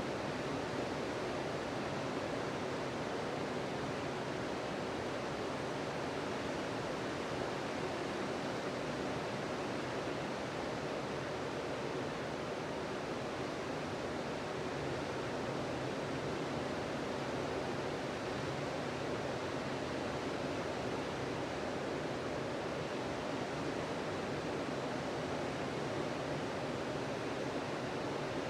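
Ocean surf washing onto a beach: a continuous, even rush of breaking waves with no single wave standing out.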